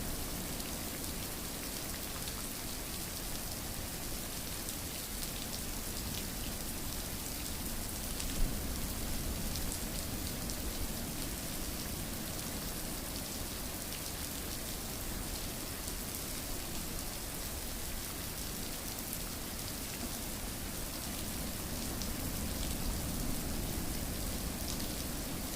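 Steady rain falling, an even hiss without letup, with one sharp click standing out about eight seconds in.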